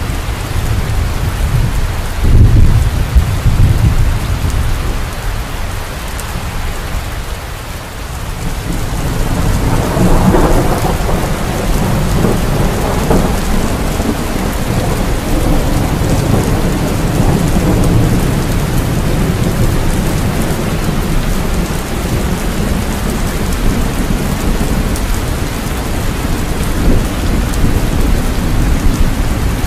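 Steady rain with thunder: a low rumble bursts in about two seconds in, and a longer roll of thunder builds from about nine seconds and dies away slowly under the rain.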